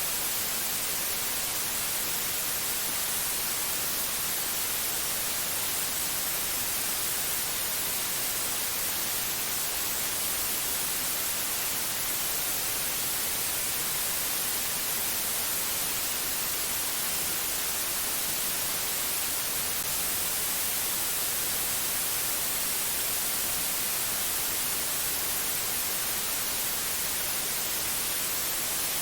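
Steady white-noise static: an even, unbroken hiss, strongest in the high treble.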